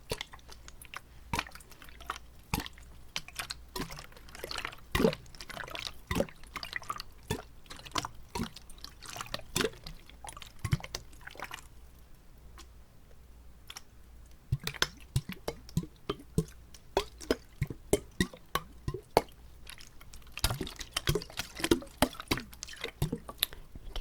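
Close-miked wet mouth sounds: water in the mouth smacked and clicked, making a dense stream of quick wet pops and drips. The pops thin out for a moment about halfway through, then come back as a run of louder, evenly spaced pops.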